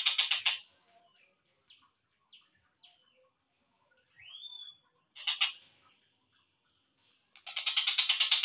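Tengkek buto (a kingfisher) calling: a fast, harsh rattling trill that ends about half a second in, then scattered short chirps, a rising whistled note, a short loud burst, and another long rapid rattle beginning near the end.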